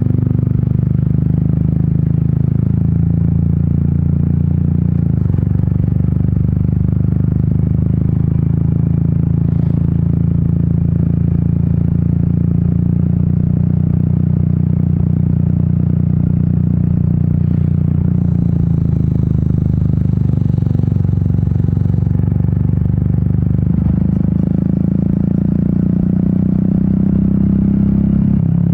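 Royal Enfield Meteor 350's single-cylinder engine and exhaust running under way, a steady low note that shifts a few times as the rider changes throttle or gear, rising near the end.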